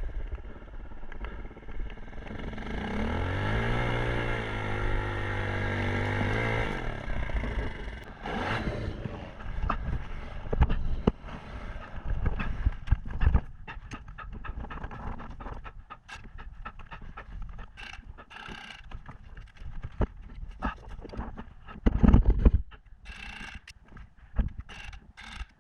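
Kawasaki KLX 150 dirt bike's single-cylinder engine revs up and holds for about four seconds, then drops away. Scattered knocks and scrapes follow, with a short loud low rumble near the end.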